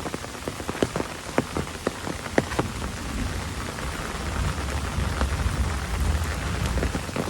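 Heavy rain falling, with many individual drops landing close by as sharp taps over a steady hiss. A low rumble swells in the second half.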